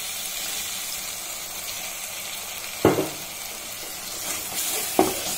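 Masala paste frying in oil in a kadhai, with a steady sizzle as a little water is worked into it. Two sharp knocks, one about three seconds in and one near the end.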